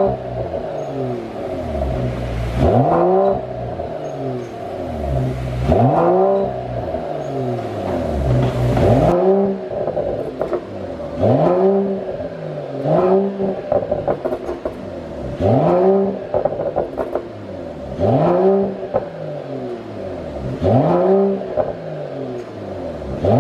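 Mercedes-AMG CLS53's turbocharged inline-six revved in short throttle blips about every two to three seconds, each rising and falling back. As the revs drop after each blip the exhaust pops and crackles, the overrun effect of a pop-and-crackle engine tune.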